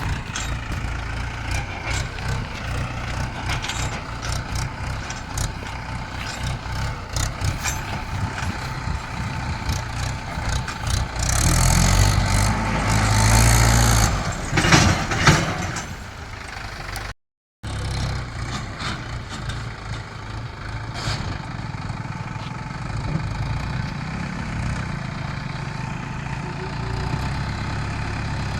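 Diesel tractor engine running steadily. It grows louder for a few seconds before the middle, and the sound drops out for a moment just after halfway.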